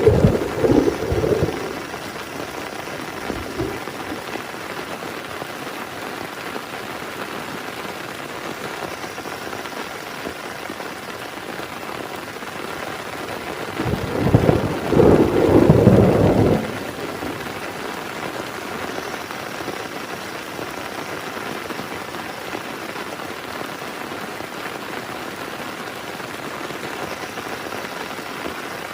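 Heavy rain falling steadily in an even hiss, with thunder rumbling twice: one rumble dies away in the first second or two, and another loud one swells about 14 seconds in and lasts two or three seconds.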